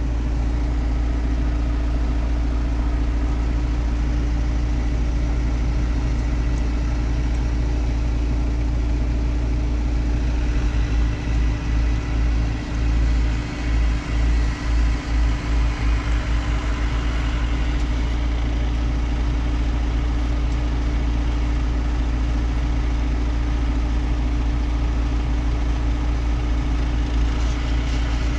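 Tractor engine running steadily at a low, even hum, with a few seconds of uneven low pulsing near the middle.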